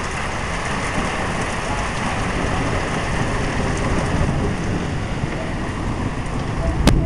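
Heavy rain pouring down in a severe thunderstorm, a steady loud wash of noise. Near the end come two sharp knocks over a short low surge.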